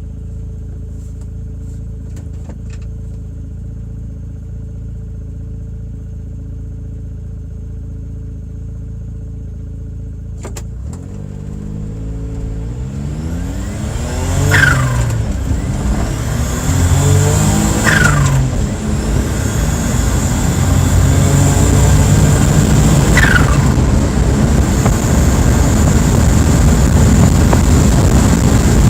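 Suzuki DC51 Carry kei truck's twin-cam turbo engine idling steadily, then accelerating hard from about ten seconds in. The engine revs up through the gears, and its pitch drops at each of several upshifts. A brief falling sound comes with each shift, and road and wind noise grow with speed.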